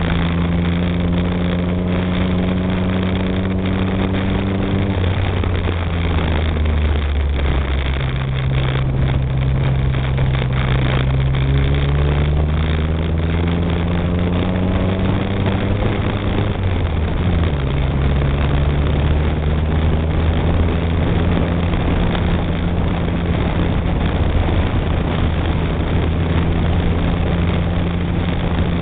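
Renault 6 TL's four-cylinder engine pulling along, its pitch climbing slowly and dropping suddenly twice, about five and about seventeen seconds in, then running steadily. A steady rushing noise of wind and tyres lies under it, heard from outside the body near the front wheel.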